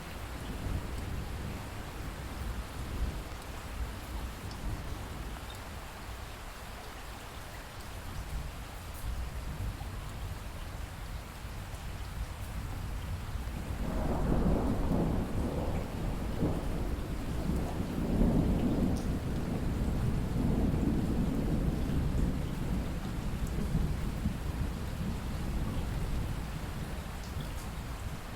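Steady rain with a long roll of low thunder that swells up about halfway through and slowly dies away near the end.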